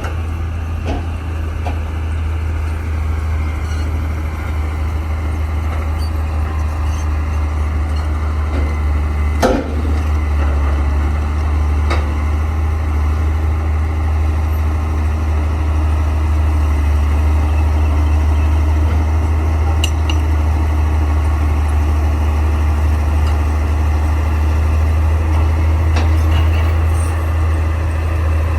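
Crawler bulldozer's diesel engine running steadily, with a sharp knock about a third of the way in and a few lighter knocks later.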